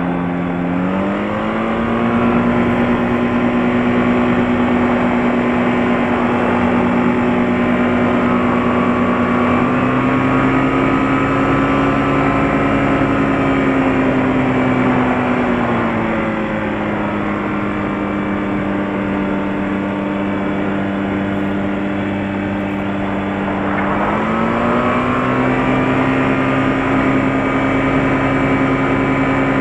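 Light aircraft's piston engine and propeller running on the ground, a steady drone. The engine speed rises about a second in, eases back around the middle, and rises again later.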